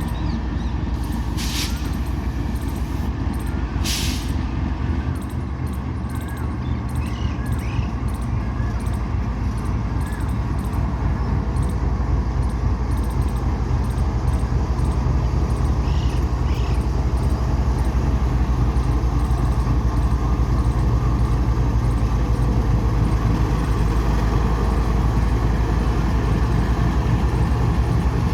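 A long goods train running through a station: the steady rumble of its wagons on the rails, growing slightly louder. Two short hisses come in the first few seconds.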